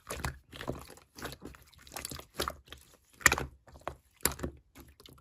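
Slime being pressed and squished by hand, making irregular short crunchy, wet pops, about two or three a second, with the loudest a little past the middle.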